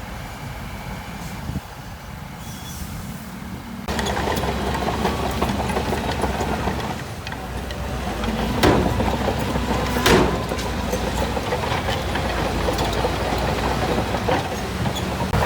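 Heavy earthmoving machine's diesel engine running steadily. The sound jumps abruptly louder about four seconds in, and two sharp knocks come near the middle.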